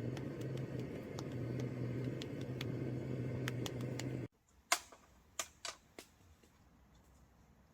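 A small motor hums steadily with a faint hiss, then cuts off suddenly a little past halfway; a few light clicks follow.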